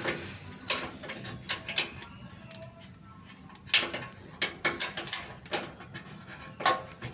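Scattered metallic clicks and knocks of a wrench on the bolts of a Mitsubishi Pajero Sport's under-engine guard plate as they are loosened.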